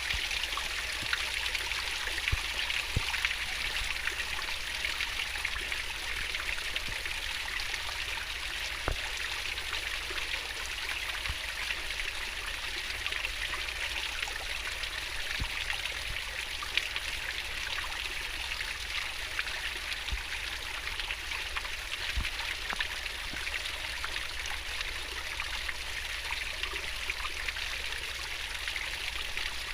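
Fast-flowing stream running over stones: a steady babbling and splashing rush of water with small scattered drips and ticks.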